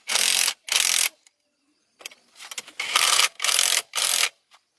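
Rasping scraping strokes by hand, three in quick succession, a pause of about a second and a half, then three more, each stroke about half a second long.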